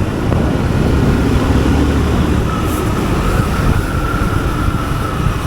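Road noise of a motorcycle ride in city traffic: a steady low rumble of engine and traffic, with a faint thin whine coming in about halfway through.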